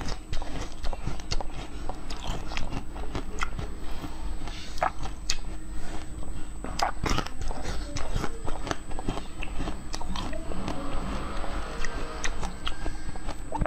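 Close-miked chewing: irregular soft, wet clicks and smacks of a mouth working through a bite of a soft watermelon-lookalike food.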